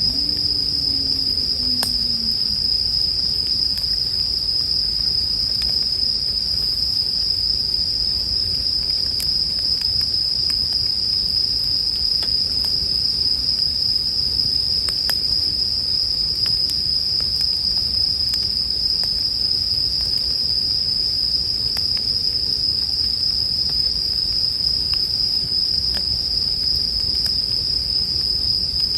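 Bell crickets (suzumushi) chirping in an unbroken high-pitched chorus, over the low rumble of a campfire with a few scattered sharp crackles and pops.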